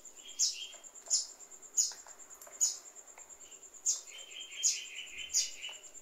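Bird chirping: short, sharp, falling chirps repeated roughly every 0.7 seconds over a steady high-pitched whine. From about four seconds in, a rapid pulsing call joins.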